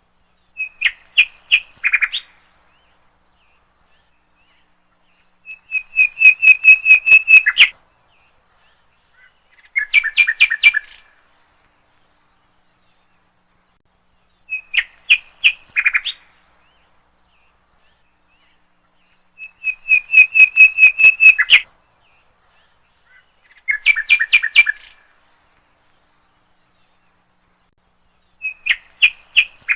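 A songbird singing short phrases of rapid, repeated notes with silent gaps between them. The same three phrases come back in the same order about every 14 seconds.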